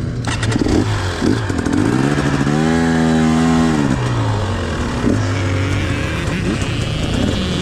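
Dirt bike engine accelerating: the pitch climbs about two seconds in, holds high for about a second, then drops back as the throttle is rolled off, with a few sharp clicks in the first second.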